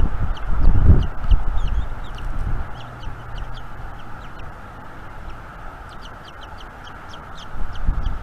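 Wind buffeting the nest camera's microphone, with heavy rumbling gusts in the first second and again near the end and a steady hiss between. Many short, high bird chirps are scattered throughout.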